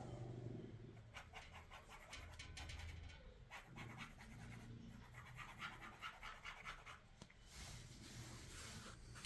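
Faint scratching and rustling, with many small irregular clicks.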